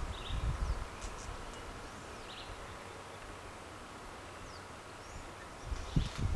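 Outdoor nature ambience: scattered short bird chirps over a faint steady insect drone. Low rumbling thumps come about half a second in and again near the end.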